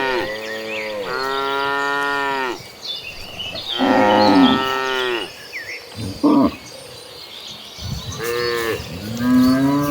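Herd of cattle mooing: several long drawn-out moos of one to two seconds each, with a couple of shorter calls between them, differing in pitch from animal to animal.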